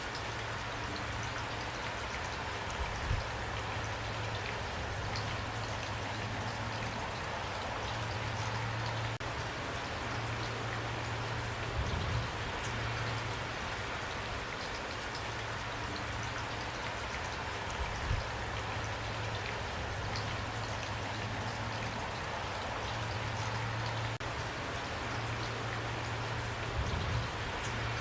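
Steady rain falling, an even hiss of drops, with a few short, low thumps every several seconds.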